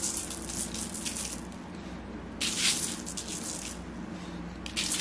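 Cinnamon sugar being sprinkled over the dough in three bursts of gritty, rattling hiss, each about a second long.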